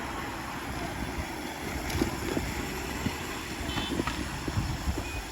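Riding noise from a motorbike in traffic: steady wind on the microphone and road rumble, with a few sharp knocks and clatters about two and four seconds in.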